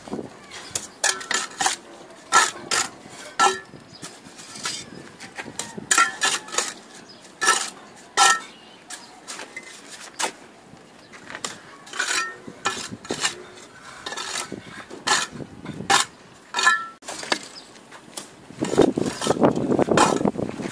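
Masonry hand tools clinking and tapping on brick: a run of sharp, ringing metallic knocks at irregular intervals, with a longer scraping noise near the end.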